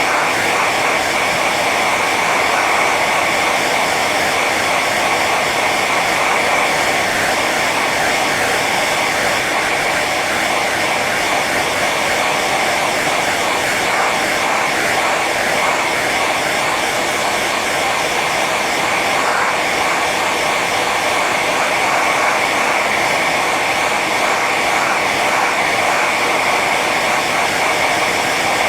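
Hair dryer running steadily on its high setting: an even rush of air with a steady whine.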